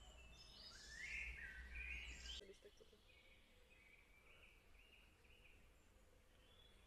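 Faint songbird chirps and calls, with a low rumble underneath that cuts off suddenly about two and a half seconds in; after that, quieter bird notes over a faint outdoor hiss.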